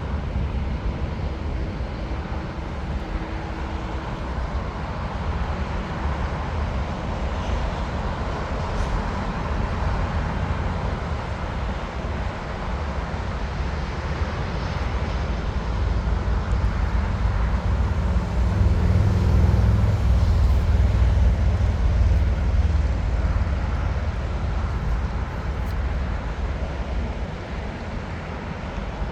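Jet airliner engines rumbling as a plane passes at the airport. The low rumble swells to its loudest about two-thirds of the way through, then eases off.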